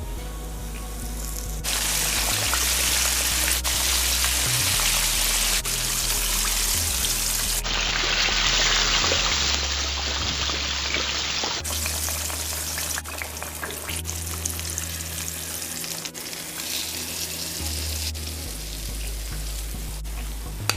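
Fish deep-frying in hot oil: a steady sizzle that starts about two seconds in. Soft background music runs underneath.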